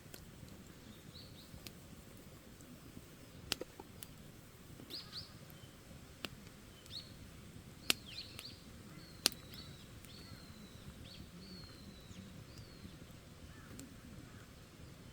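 Wood campfire crackling quietly, with a few sharp pops that stand out as the loudest sounds, while small birds chirp in short high calls.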